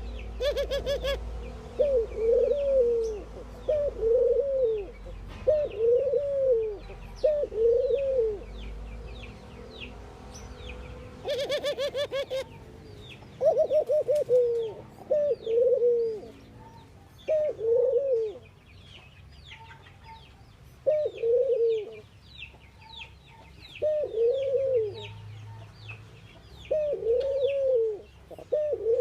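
Ring-necked doves cooing: a low, arched coo repeated about once a second in runs, with pauses between the runs. Small birds chirp high above throughout, and there are two short bursts of rapid clicking, near the start and about 12 seconds in.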